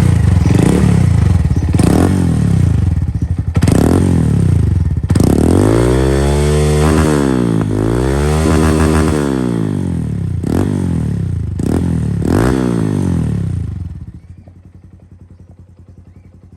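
Motorcycle engine being revved: several sharp throttle blips and long sweeps up and down in pitch. Near the end it drops away to a much lower level.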